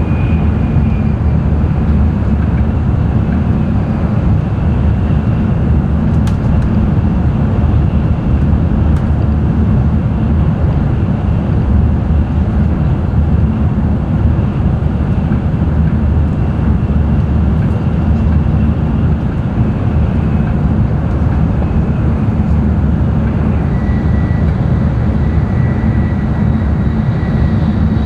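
Inside the passenger cabin of an N700-series Shinkansen at speed: a steady, loud rumble of running noise, with a faint high whine that steps down in pitch a little past the middle.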